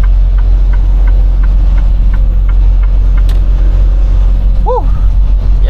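Semi truck driving, heard inside the cab: a heavy, steady engine and road rumble. Light ticking at about three a second runs over it and dies out about halfway, and a short squeak rises and falls near the end.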